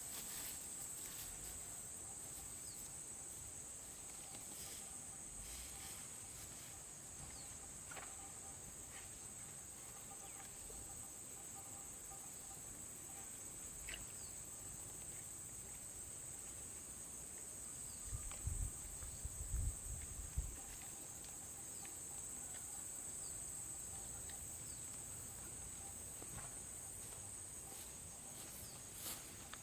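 Insects droning in a steady, high-pitched chorus, with a few low thumps about two-thirds of the way in.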